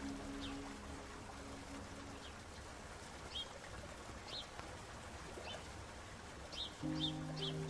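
Short, high chirps from a small bird, spaced a second or so apart and coming faster near the end, over a low wash of surf. Soft music fades out in the first two seconds and comes back near the end.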